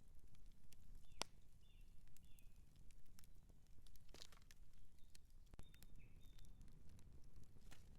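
Outdoor wood campfire crackling, with sharp irregular pops and snaps over a steady low rumble.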